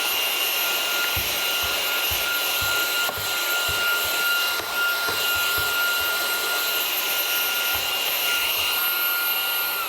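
Small handheld electric power tool's motor running at a constant high speed: a steady high whine over a hiss. Near the end it is switched off and the whine falls in pitch as the motor winds down.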